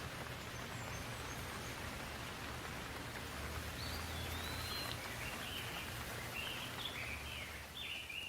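Steady rain falling, with a bird calling in a run of short chirps from about halfway through.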